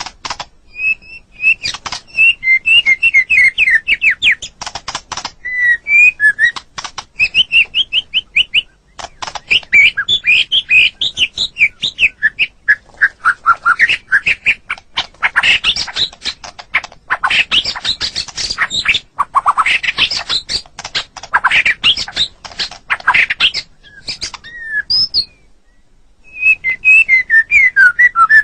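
White-rumped shama (murai batu) singing a long, varied song: clear whistled phrases mixed with fast runs of clicking, rattling notes, with a short pause near the end.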